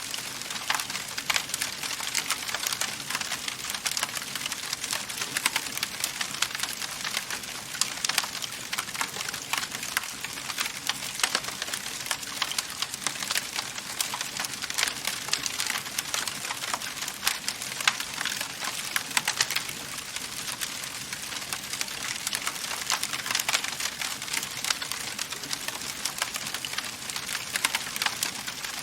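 Wood fire burning in a fireplace and crackling: a dense, steady run of small pops and snaps over a soft hiss.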